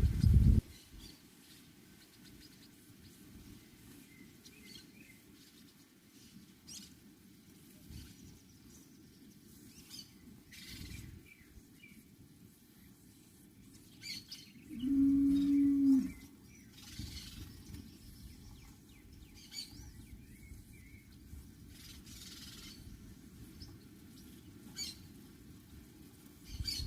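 A cow moos once about halfway through, a steady call lasting about a second, over scattered faint bird chirps. A brief low rumble at the very start.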